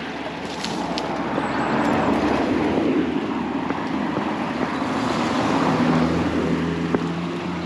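A car driving past close by, with tyre and engine noise. It swells about two seconds in and again around six seconds in.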